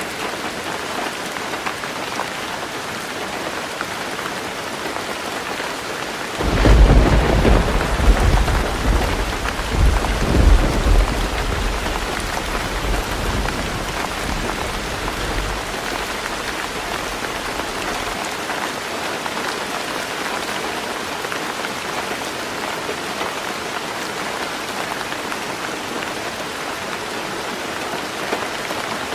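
Heavy rain falling steadily on a roof. About six seconds in comes a sudden thunderclap that rolls on with several loud peaks and fades out about ten seconds later.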